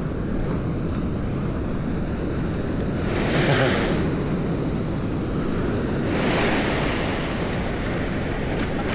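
Ocean surf washing up the beach, with two waves hissing in about three and six seconds in, over a steady low rumble of wind on the microphone.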